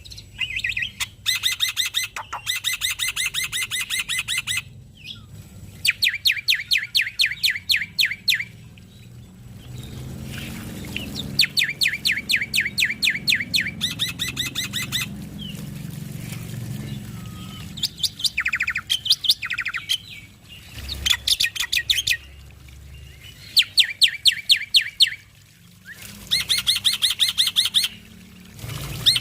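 Male black-winged myna (jalak putih) singing at full song: bouts of fast, rapidly repeated chattering notes, each a couple of seconds long, with short pauses between them.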